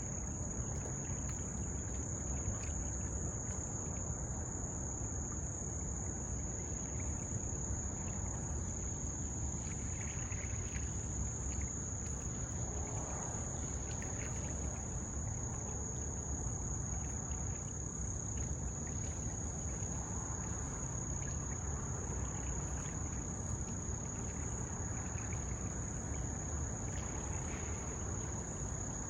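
A steady, continuous high-pitched trilling of insects, a summer chorus of crickets or katydids, over a low, even rumble of background noise.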